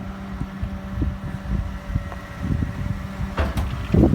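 Ford V10 truck engine idling with a steady low hum, with wind buffeting the microphone. A sharp click about three and a half seconds in, and louder handling noise near the end.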